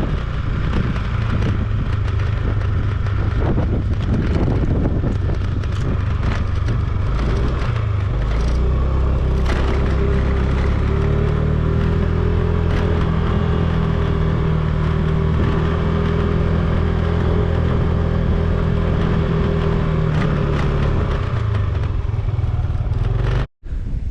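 Motorcycle engine running on the move, with wind and road rumble on the microphone; the engine note shifts about eight seconds in, holds a steady pitch, then drops again shortly before the sound cuts off suddenly near the end.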